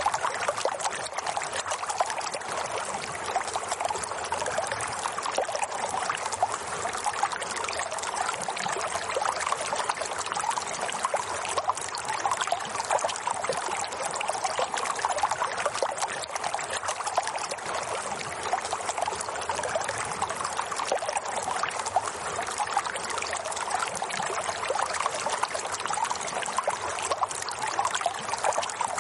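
Running water trickling and splashing steadily, with no change through the stretch.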